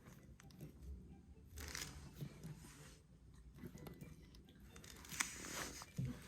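Faint handling of plastic toy parts and packaging: soft rustles and light clicks, with a sharper click about five seconds in.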